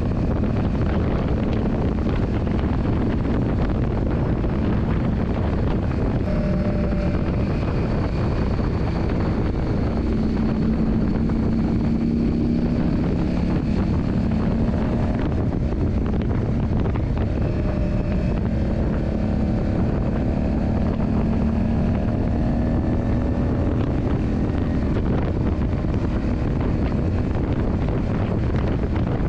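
Yamaha Drag Star 400's V-twin engine running while under way, its note drifting gently up and down with the throttle, under heavy wind noise on the microphone.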